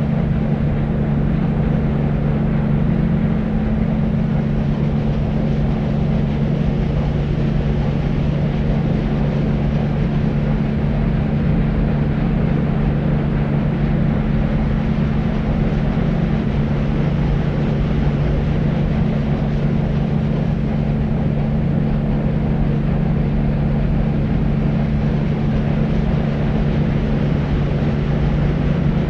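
Deep white noise for sleep: a steady, dull rumbling hiss heavy in the bass, with a constant low hum running through it and no change.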